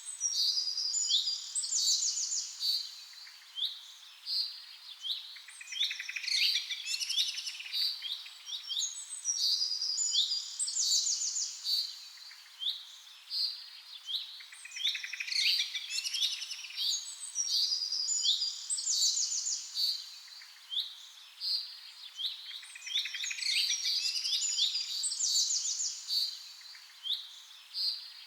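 Birds singing: quick high chirps over and over, with a burst of fast trills coming back about every eight seconds.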